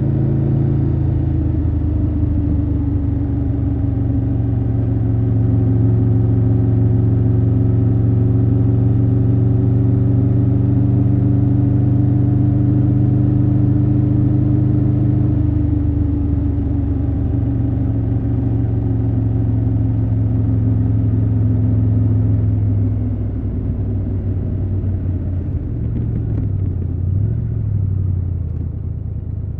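Triumph Tiger 1200 Rally Pro's three-cylinder engine under way at a steady pace, its note drifting slowly up and down. About halfway through the note changes, and from about three quarters of the way in it gets quieter as the bike eases off.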